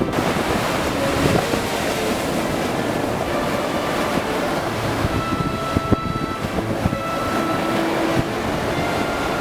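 Baltic Sea surf: waves washing onto the shore in a steady, continuous rush.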